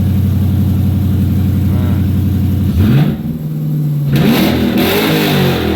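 2019 Dodge Scat Pack's 392 HEMI V8, fitted with a modified Hellcat K&N intake and larger throttle body, idling steadily while warming up after a cold start. About three seconds in it is revved: a quick rise, a held higher pitch, then louder revs rising and falling near the end.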